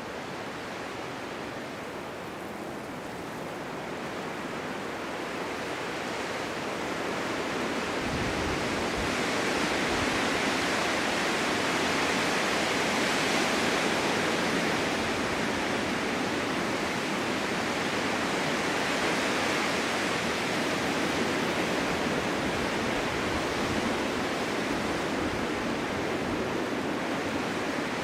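Snowstorm wind blowing steadily, swelling into a stronger gust about a third of the way in and staying strong, with low rumbles as the gust builds.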